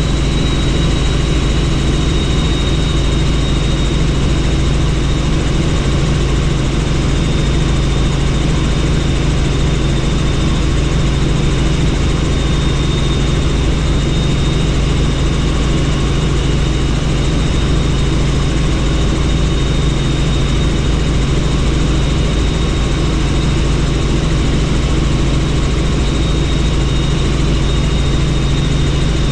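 Helicopter in flight, heard on board: the engine and rotor run steadily, with a low drone and a thin, steady high whine over it.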